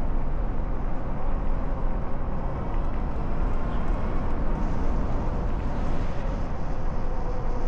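Steady low rumble of road and street-traffic noise heard from a moving e-bike, with a faint steady hum in the second half.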